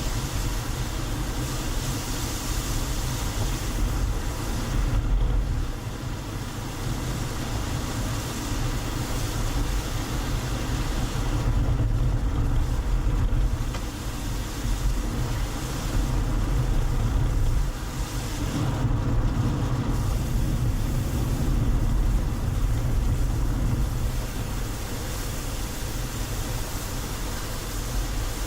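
A car driving along a road: a steady low rumble of engine and road noise with tyre hiss, its loudness rising and falling a little.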